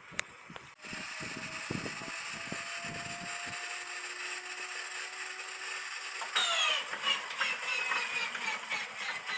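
Inertia starter of an An-2's ASh-62IR radial engine: after a click, its electrically driven flywheel spins up with a steady whine that slowly rises in pitch. About six seconds in it is engaged, the whine drops sharply in pitch and the engine is turned over with irregular knocks.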